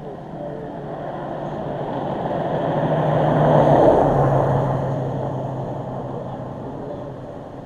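A car driving past: its tyre and engine noise swells to a peak about four seconds in and then fades away. Its hum drops slightly in pitch as it passes.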